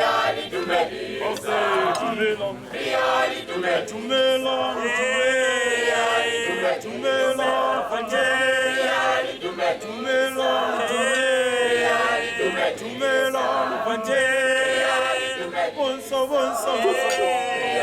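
A group of voices singing together unaccompanied, choir-like, in sustained melodic phrases.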